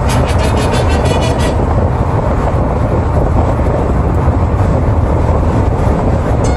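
CN train rolling across a railway bridge: a loud, steady rumble of wheels and cars, with a rapid high-pitched clatter and ringing during the first second and a half.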